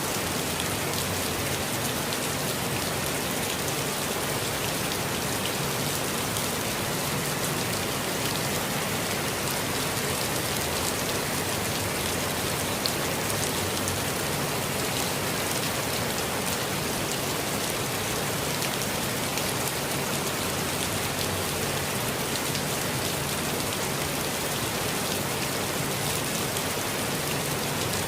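Steady, gentle rainfall in a forest, many drops pattering on leaves and ground in an even hiss with no change in strength.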